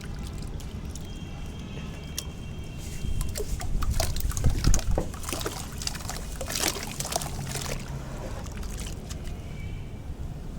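Soft sand-cement dipped in water, crumbling apart with wet crackling and trickling. The crackling thickens about three seconds in, peaks a second or two later and thins out after about eight seconds.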